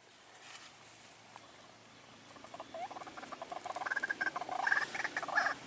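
Fast, squeaky animal chattering of short chirps, starting about two seconds in and growing louder.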